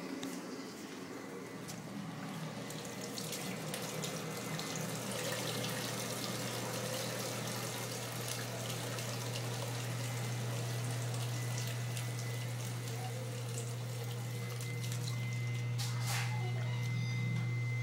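Metrowealth WP5B countertop dishwasher running, with water rushing and splashing inside it. A steady motor hum comes in about five seconds in and holds.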